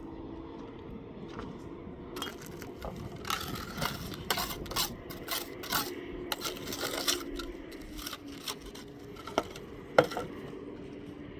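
A run of irregular clinks, scrapes and knocks of hard objects being handled, starting about two seconds in and thinning out near the end, with one sharp knock the loudest, over a faint steady hum.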